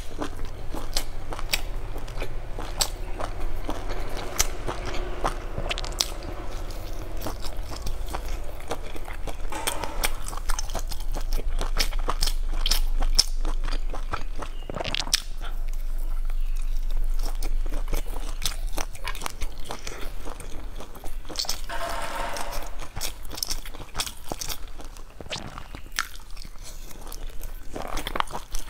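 Close-miked chewing and biting of spice-coated skewered sausages, a dense run of sharp mouth clicks and smacks.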